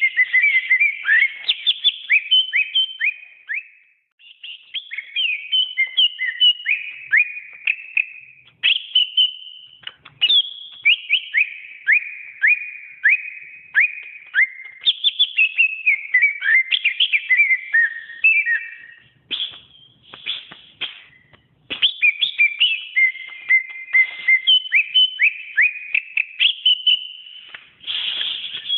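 Cucak ijo (green leafbird) singing: a long, rapid run of loud, varied whistled notes and quick downward slurs, pausing briefly twice.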